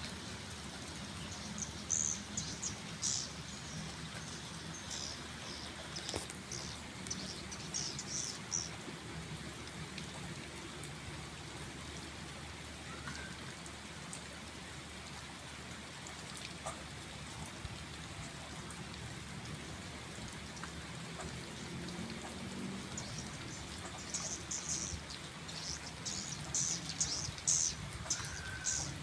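Steady rain falling, with bursts of high-pitched bird twittering for the first several seconds and again over the last six or so.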